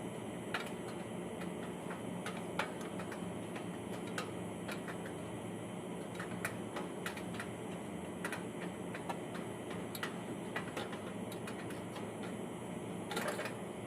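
Steady machine hum with irregular light clicks and taps scattered through it, and a short run of louder clicks near the end.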